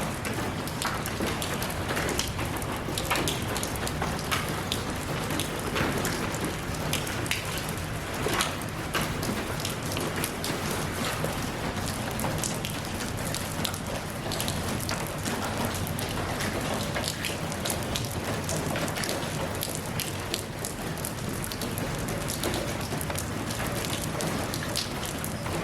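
Steady rainfall: a dense even hiss of rain with many individual drops pattering on surfaces.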